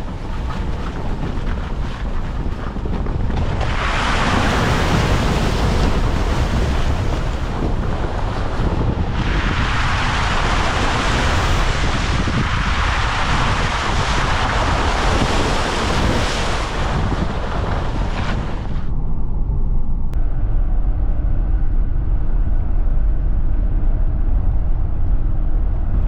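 Toyota 4Runner driving off-road: a steady low engine and tyre rumble under loud rushing noise that swells twice and stops about nineteen seconds in, leaving only the low rumble.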